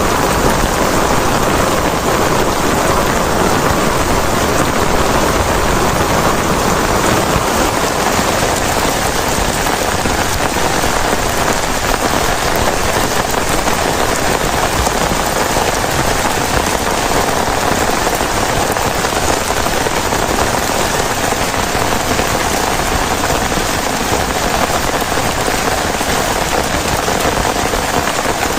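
Heavy rain falling steadily on a plastic tarp, an even, unbroken downpour with no let-up.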